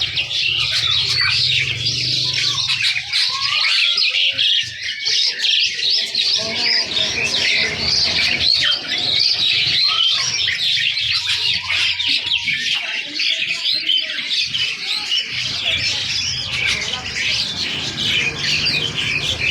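Many caged birds chirping and squawking at once, a dense, unbroken chatter of overlapping high calls.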